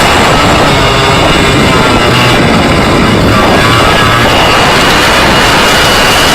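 Easykart 125 kart's 125 cc two-stroke engine running hard at high revs, very loud, with the pitch dipping and climbing back near the middle as it comes off and back on the throttle.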